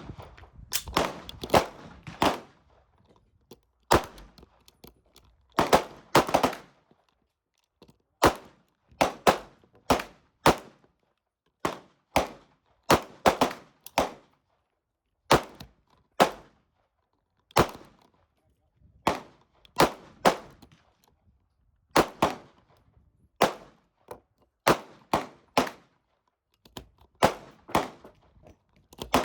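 Handgun shots, about thirty in all, fired one at a time and in quick runs of two to four.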